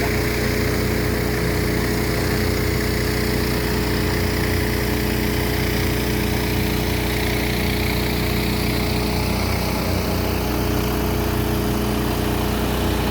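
Motor running steadily with a hum of unchanging pitch.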